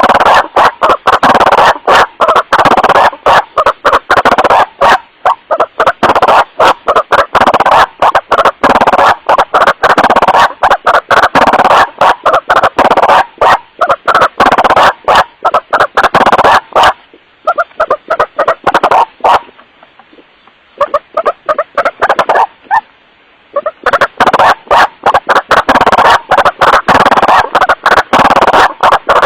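Recorded white-breasted waterhen calls, a rapid run of harsh repeated 'wak-wak' notes, amplified until it clips and distorts. A stretch a little past the middle is quieter and sparser before the loud chorus returns. This is a lure call played to attract waterhens.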